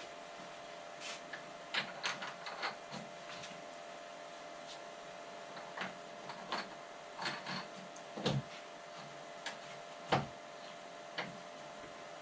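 Irregular light clicks and knocks of hardware being handled as the fasteners of a snowblower handle are screwed on by hand, with two duller knocks in the second half, over a faint steady hum.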